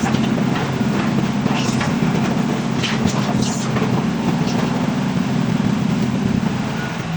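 Engine running at a steady speed, a constant low drone, with scattered short scrapes and clicks over it.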